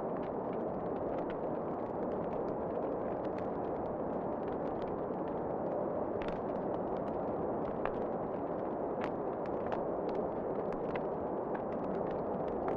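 Fire crackling in a fireplace: a steady low rushing with scattered sharp pops and snaps at irregular intervals.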